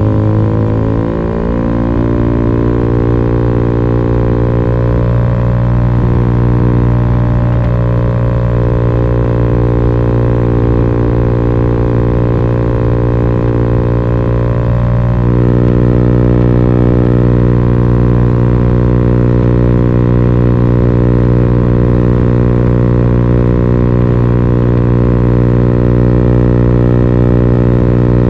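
Italjet Dragster 125 scooter engine breathing through an Akrapovic slip-on muffler with its baffle removed, running at steady revs with a loud, droning exhaust note. The pitch shifts in the first second or two, then rises slightly about halfway through.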